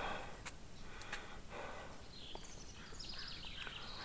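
Small birds chirping and singing in short, high, repeated trilled phrases over a quiet background.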